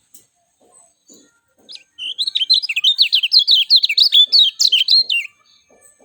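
Kecial kuning songbird giving a fast, loud warbling song burst of rapid chattering notes, starting about two seconds in and stopping abruptly about three seconds later, after a few faint high calls.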